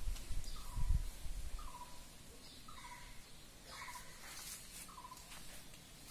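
A bird calling over and over: a short note that slides down and settles, about once a second. A low rumble on the microphone in the first second is the loudest sound.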